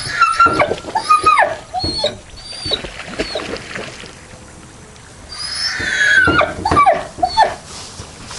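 Animal calls: a run of short squeals and chirps, each falling in pitch. They come in two flurries, one at the start and another about five and a half seconds in, with a quieter gap between.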